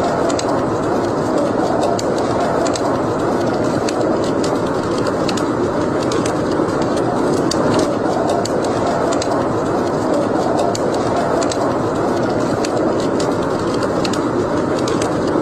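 Wood fire burning in a fireplace: a steady rushing sound of the flames with frequent, irregular sharp crackles and pops.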